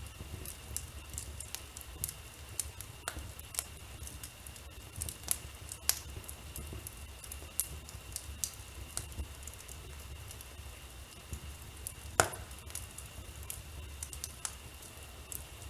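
Wood fire crackling in a fireplace: irregular sharp pops and snaps over a low rumble of the flames, the loudest crack about twelve seconds in. A faint steady high tone runs underneath.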